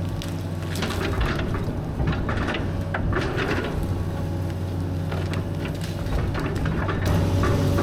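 Caterpillar 315B excavator's diesel engine running steadily under load while wood and brush crack and splinter, with repeated short snaps throughout. The engine gets a little louder near the end.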